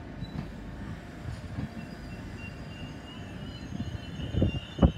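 LNER Azuma (Hitachi Class 800-series) electric train running slowly into the platform with a steady low rumble. A thin high squeal comes in about two seconds in and grows louder, and there are a few heavy low thumps near the end.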